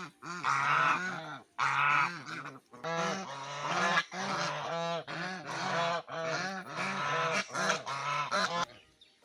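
Domestic ducks calling loudly in a rapid, repeated series of calls in clusters of about a second, which stop near the end.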